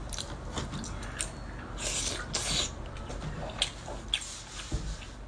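Close-miked eating sounds of spicy seafood: many wet clicks and smacks, with a couple of short slurps about two seconds in.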